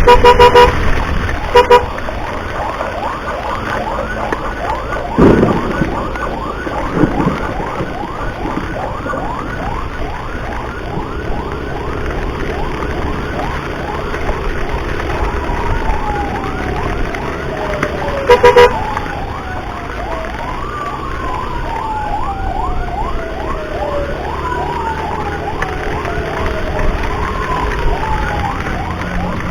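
Ambulance siren running in a fast repeating yelp, then changing about halfway through to slower falling wails every few seconds, over steady road noise. A horn honks in short blasts at the start and again about two-thirds of the way through, and there are two thumps early on.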